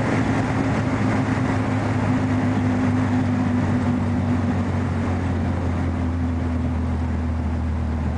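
Old air-cooled Volkswagen flat-four with a header exhaust running steadily at freeway cruising speed: a loud, constant drone heard from inside the cabin, with road noise underneath.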